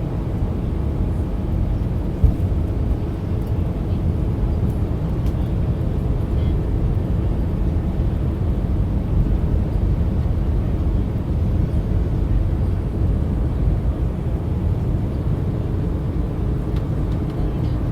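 Cabin noise inside an Airbus A319 airliner: a steady low rumble of engines and airflow, with one brief knock about two seconds in.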